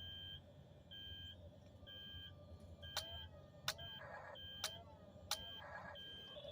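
Electronic beeping from a Double E remote-control track-type tractor toy: a short high beep about once a second. Four sharp clicks come in the middle.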